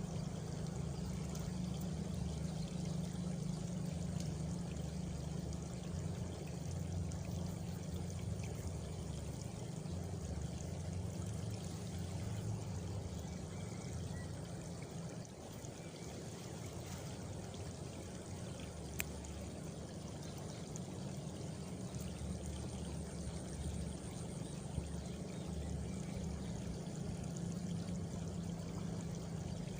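Steady rush of flowing water, even and unbroken, with a couple of brief faint clicks past the middle.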